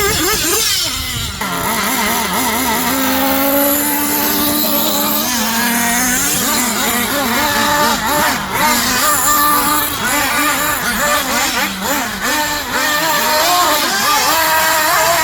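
Small two-stroke nitro engine of a Mugen Seiki MBX5R 1/8-scale RC buggy running on the track. The pitch keeps climbing and dropping as it accelerates and brakes around the circuit, with other engines running at the same time.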